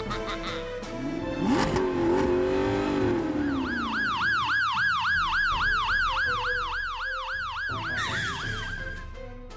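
Police siren in a fast yelp, rising and falling about three times a second, starting a few seconds in and stopping near the end. Before it, a lower tone rises and then slowly falls.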